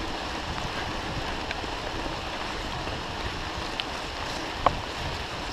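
Steady rushing noise of a mountain bike being ridden on a wet trail, tyre and wind noise on a GoPro microphone, with a few small clicks and one sharper click about four and a half seconds in.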